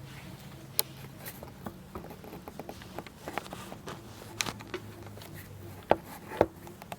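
Kitchen utensils and cookware being handled: scattered light clicks and knocks, with two louder knocks near the end, over a faint low hum.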